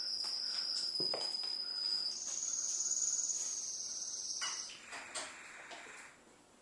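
A steady high-pitched insect trill, jumping a little higher about two seconds in and stopping just before the five-second mark, followed by a fainter, lower hiss for about a second and a half.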